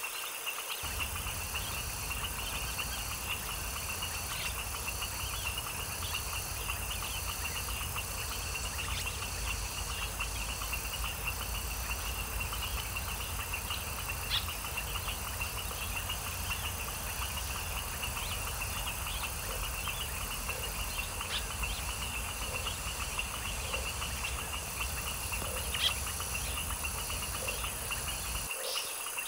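A steady chorus of night insects trills on without a break, with a few short bird chirps over it. A low rumble runs underneath and stops shortly before the end, and a few soft, low frog croaks come in the second half.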